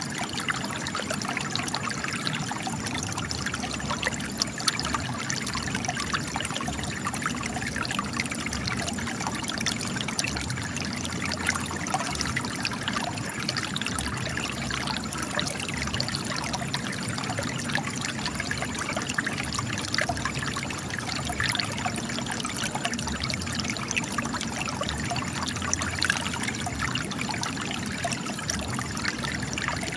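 Spring water gushing and trickling from cracks in rocks, a steady splashing flow with constant fine patter.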